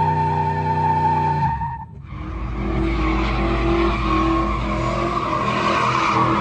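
A held musical note that cuts off about a second and a half in. Then a vehicle doing a burnout: the engine runs hard and the spinning tyres squeal and hiss.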